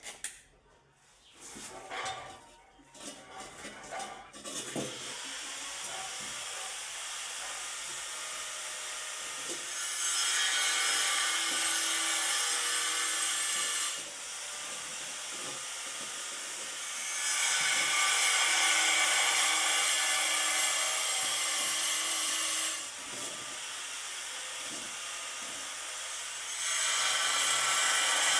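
A power tool running steadily with a hissing, high sound, louder in three spells of several seconds each, as though under load. The first few seconds hold scattered knocks and handling before it starts.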